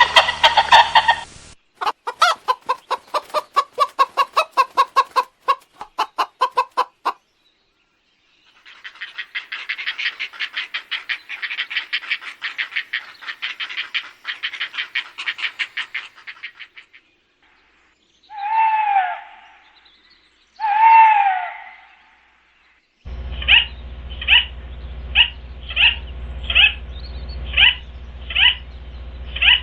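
A run of different bird calls, one after another with short gaps. First comes a fast series of pulsed notes, then a longer rapid chatter, then two separate downward-arching calls. Last is a regular string of short, sharp calls, roughly three every two seconds, over a low hum.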